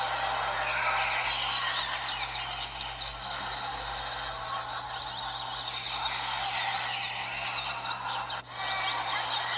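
Many double-collared seedeaters (coleiros) singing over one another, a dense chorus of quick, high chirping phrases, over a steady low hum. There is a brief break about eight and a half seconds in.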